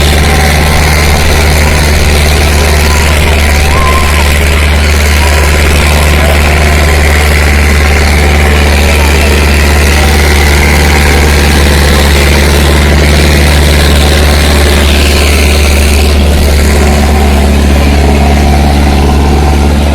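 Sonalika 750 tractor's diesel engine running steadily and loudly, a deep unchanging engine note.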